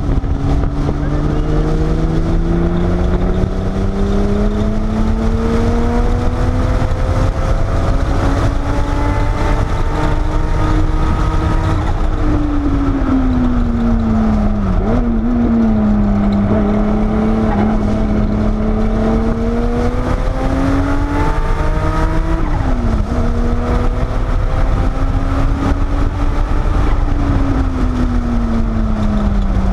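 Porsche 930 Turbo's air-cooled turbocharged flat-six heard from inside the cabin under load on track, its revs climbing slowly for about twelve seconds, then falling as it eases off. The revs climb again, drop sharply at a gear change about two-thirds through, and fall near the end. A heavy low rumble of wind and road noise lies underneath. The exhaust header slip joints have been freshly resealed against leaks.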